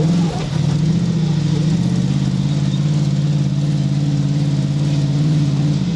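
Off-road vehicle engine running under steady throttle at fairly even revs, with a brief dip in level just after the start.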